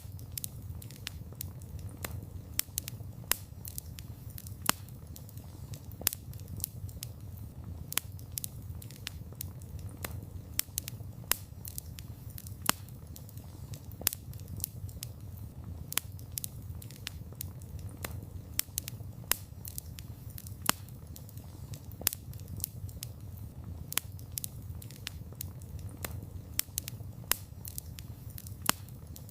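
Wood fire crackling: irregular sharp pops and snaps several times a second over a steady low rumble of burning.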